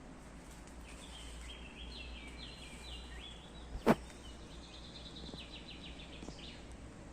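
A bird singing a run of quick repeated high notes in stepped phrases, over a steady low rumble of outdoor background noise. A single sharp click, the loudest sound, cuts through about four seconds in.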